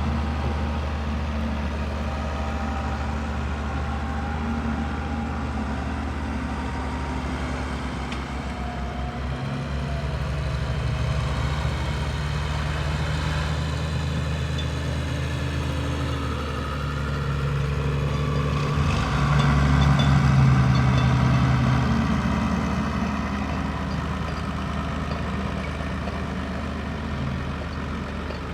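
Tractor engine running steadily, growing louder for a few seconds about two-thirds of the way through before easing off.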